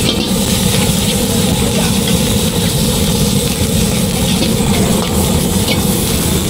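High-pressure gas wok burner burning with a steady low rush, with a few faint ticks over it.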